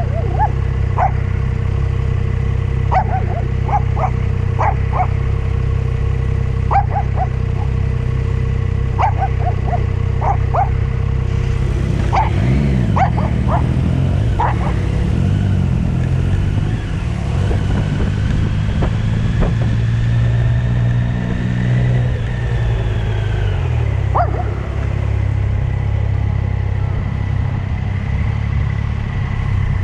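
A dog barking in short bursts over the steady running of a motorcycle engine. The barks come in clusters through the first half, with one more near the end. The engine note rises and falls a little around the middle.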